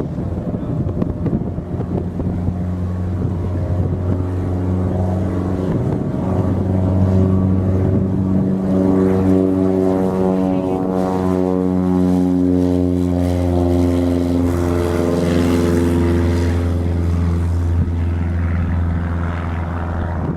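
Robinson R22 helicopter running in flight: a steady, loud droning hum from its engine and rotor, strengthening a few seconds in.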